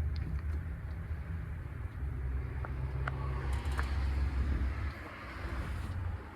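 Scania G 420 truck's diesel engine idling, a steady low hum, with a few light clicks partway through.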